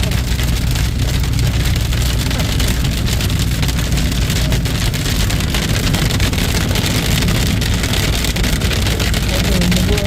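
Severe hail hitting a car's windshield and body, heard from inside the moving car: a dense, continuous clatter of small impacts, very loud, over a low steady rumble of road and engine noise.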